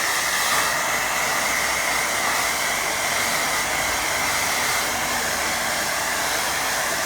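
Handheld hair dryer running steadily: a constant rush of blown air with a steady whine in it.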